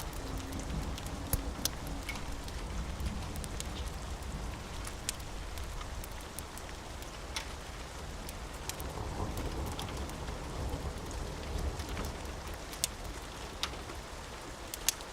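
Steady rain on a roof, with scattered sharp ticks of single drops or crackles over a low rumble underneath.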